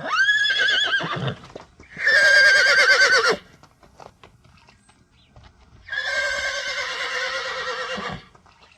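Horse whinnying three times, each a long, quavering neigh lasting one to two seconds, with faint knocks in the pauses between calls.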